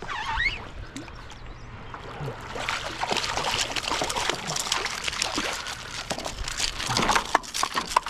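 A small bluefish splashing and thrashing as it is landed at the kayak, with water sloshing and dripping. A dense run of quick taps and splashes starts about two and a half seconds in.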